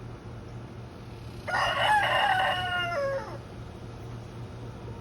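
Rooster crowing once, a single call of nearly two seconds, starting about a second and a half in and dropping in pitch at the end.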